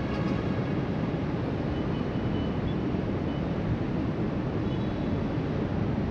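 Steady wind on the microphone mixed with the surf of ocean waves breaking along the beach below. A few faint short high tones come through about two seconds in and near the end.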